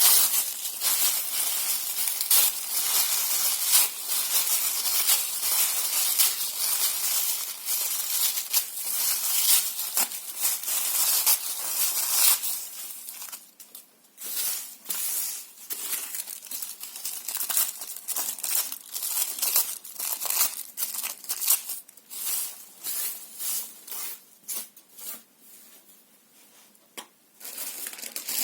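Paper being torn and crumpled: dense, continuous tearing and rustling for about the first twelve seconds, then separate shorter tears and crinkles with quiet gaps between them, thinning out near the end.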